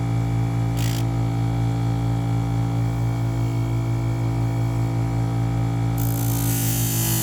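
Electric sharpening grinder running with a steady motor hum. A brief hiss about a second in, and from about six seconds a louder grinding hiss as the knife edge is held against the rotating wheel.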